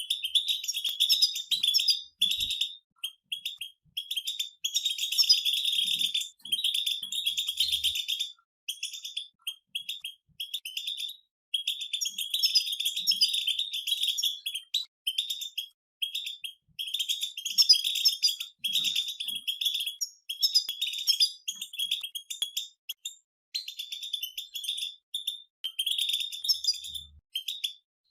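Several European goldfinches twittering together in fast, dense chatter, in bursts of a second or three broken by short pauses.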